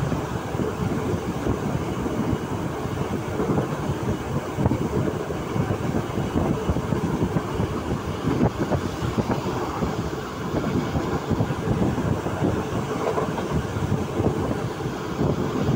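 Passenger train running at speed, heard at an open carriage window: a steady rumble of wheels on the rails with a dense, irregular rattle and clatter.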